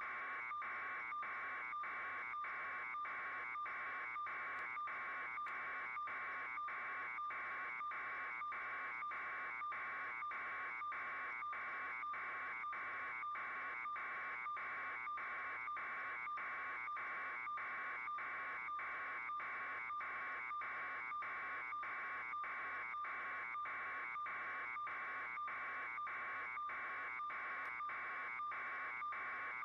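A steady buzzing tone that pulses evenly about twice a second.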